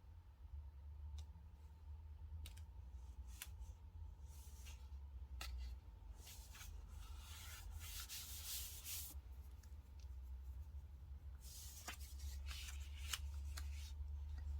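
Paper and sticker sheets being handled close up: soft rustling and rubbing, with scattered light clicks and taps and two longer stretches of rustle partway through and near the end. A steady low hum lies underneath.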